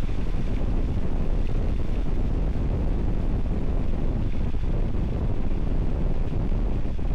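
Wind buffeting the microphone: a steady, loud, low rumble that never lets up, with vehicle noise beneath it.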